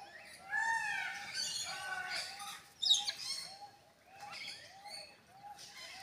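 Birds chirping and calling: a short call repeats steadily about two and a half times a second under bursts of higher chirps, with one sharp, loud call about three seconds in.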